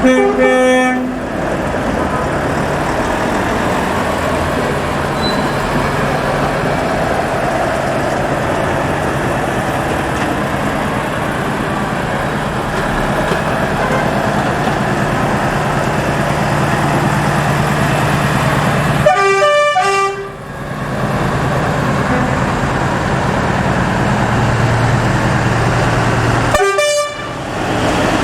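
Trucks passing with their engines running steadily, and truck horns blown in short multi-note blasts: once at the start, once about two-thirds through and once near the end.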